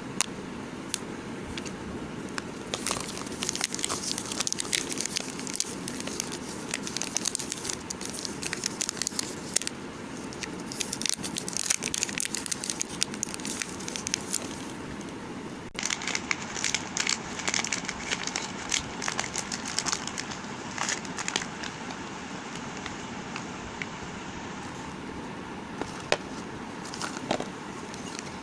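Knife cutting and carving a bar of dry soap, with dense irregular crackling as the soap breaks and crumbles. The sound changes abruptly a little past halfway.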